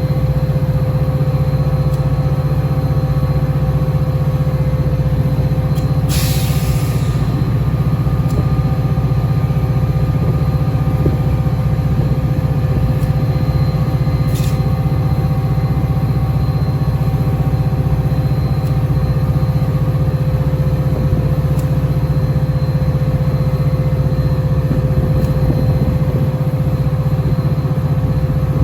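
Diesel locomotive of a Metra commuter train running steadily while stopped, a loud low hum with a few constant tones over it. A short burst of air hiss comes about six seconds in, and a sharp click just after fourteen seconds.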